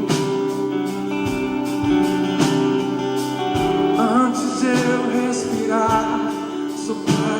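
Live gospel worship music: a band with guitar plays a slow song under long held notes, and a voice comes in with wavering vibrato from about four seconds in.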